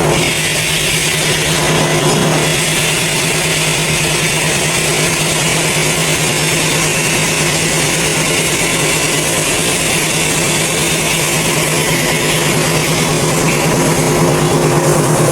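Heavy machinery running steadily: a constant low hum with a loud hiss over it, unchanging throughout.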